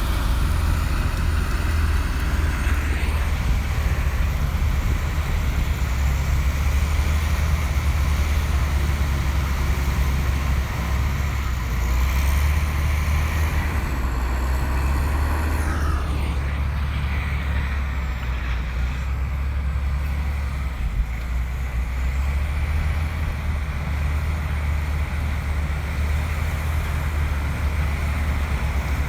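Komatsu bulldozer's diesel engine running steadily under load, a deep constant drone with a faint wavering high whine above it.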